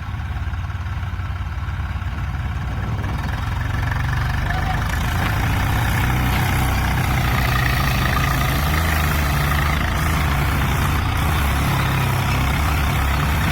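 Tractor engine running steadily, growing louder over the first four seconds or so and then holding, as the tractor works to get out of the mud.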